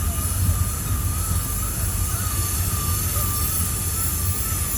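Freight train rolling through a curve: a steady low rumble with a thin, wavering high squeal held throughout, typical of wheel flanges grinding on curved rail.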